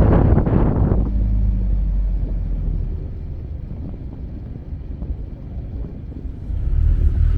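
Open-air taxi engine running, with wind buffeting the microphone. The engine drops off about three seconds in and picks up again near the end.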